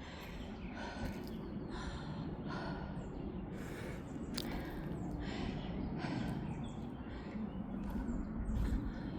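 Footsteps on the forest floor: a short rustling crunch about every second, over a steady low rumble.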